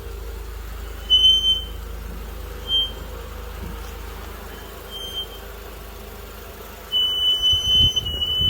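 2016 Honda Odyssey's front brakes squealing: a thin, high-pitched squeal in short squeaks, then a longer one near the end, over low road rumble. The squeal comes from the front pads and is cured by anti-squeal compound on them.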